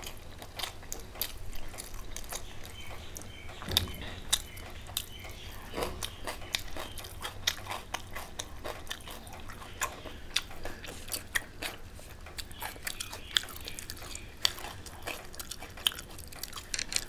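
Close-up chewing and mouth sounds of a person eating rice and meat curry by hand, with a steady run of short, sharp, wet clicks and a few louder ones.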